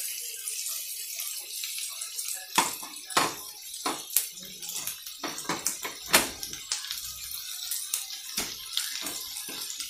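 Julienned carrots and green beans frying in hot oil in a wok with pork belly, garlic and onion: a steady sizzle with irregular sharp pops and clicks.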